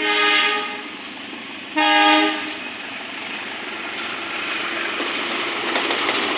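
Diesel locomotive horn of a parcel train, two short blasts about two seconds apart, followed by the rumble and rattle of the train growing louder as it draws near.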